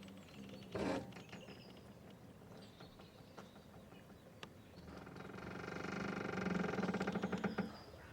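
Boat rope squeaking and creaking under strain: a short creak about a second in, then a long stretched creak that builds from about five seconds in and cuts off near the end.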